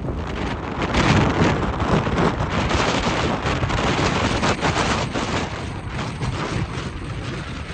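Strong wind buffeting the microphone: a loud, continuous, rough rumble with rapid crackles, heaviest in the deep range.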